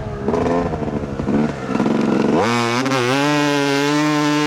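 Two-stroke dirt bike engine, a 2008 Yamaha YZ250, revving unevenly for the first couple of seconds, then climbing in pitch about halfway through and holding steady high revs.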